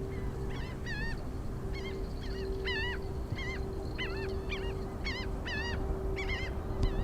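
Birds calling repeatedly: short, hooked, pitched calls, often in quick pairs, about a dozen in all. Underneath runs a steady low hum with a rumble.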